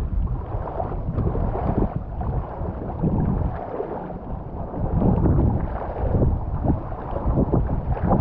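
Wind buffeting the microphone, gusting unevenly.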